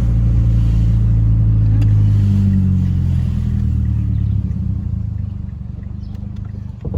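Truck engine and road noise heard from inside the cab, a steady low drone that eases off after about four and a half seconds as the truck slows.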